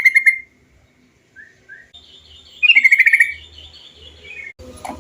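Trucukan (yellow-vented bulbul) song: two loud bursts of quick, bubbling, slightly falling notes, one at the start and one about three seconds later, with a couple of soft short notes between. A faint steady high tone runs behind the second half.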